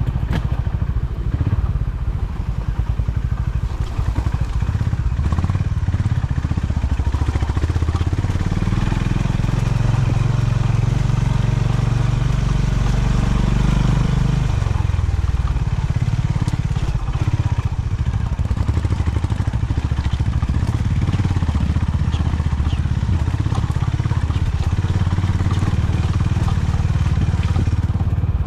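Honda CB350 H'ness's air-cooled single-cylinder engine running under way on a rough track. Its note rises steadily about a third of the way in, then drops sharply just after halfway as the throttle closes, and settles back to a lower steady beat.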